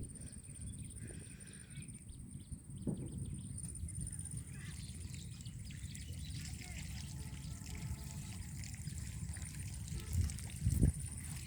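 Water trickling and sloshing over a low steady rumble, with a thin steady high whine throughout. Two dull thumps come through, one about three seconds in and a louder one near the end.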